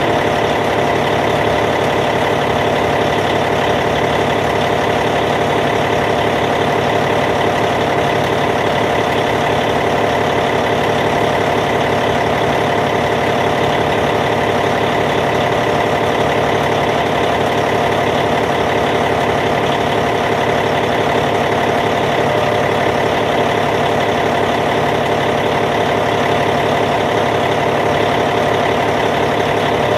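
Caterpillar C15 diesel engine of a Cat D8T bulldozer idling steadily.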